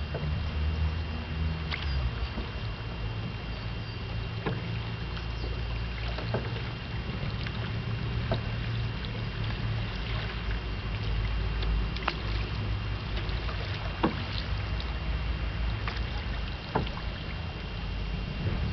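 A small boat out on the water: a steady low rumble of water and wind with scattered sharp clicks and knocks, two of the louder ones near the end.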